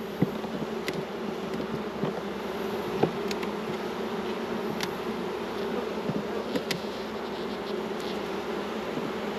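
Honey bees buzzing around an opened hive in a steady, dense hum, with a few light clicks scattered through it.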